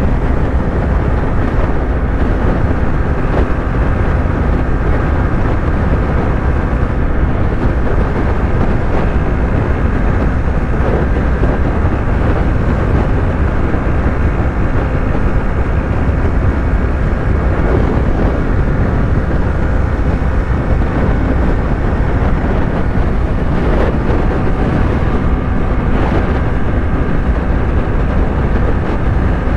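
Yamaha YZF-R3's 321 cc parallel-twin engine running steadily at highway cruising speed, heard from the rider's position with heavy wind rush over the microphone.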